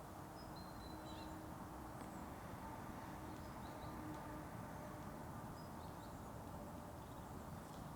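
Birds chirping faintly in the forest, short high calls scattered through, over a steady low background hum of outdoor ambience.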